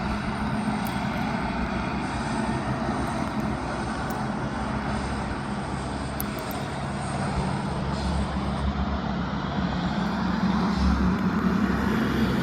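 Heavy diesel truck engine running in a steady drone, growing louder near the end as the truck comes closer.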